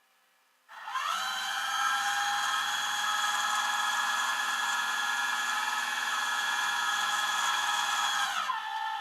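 A power tool's electric motor spinning up quickly to a steady high whine, running at constant speed for about seven seconds, then winding down near the end.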